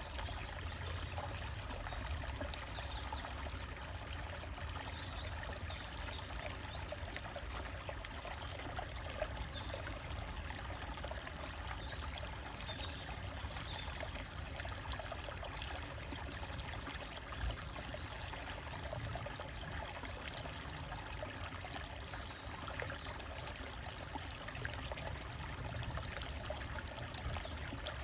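Small stream trickling and splashing over rocks, a steady rush of water.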